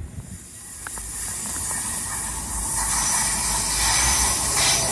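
GWR Class 802 intercity train approaching, the hiss of its wheels on the rails growing steadily louder over a low running drone.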